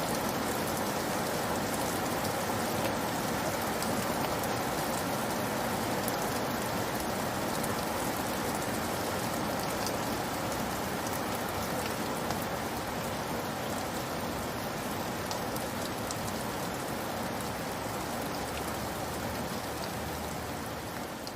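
Steady rainfall, a dense even hiss with scattered drop ticks, growing gradually a little quieter over the second half.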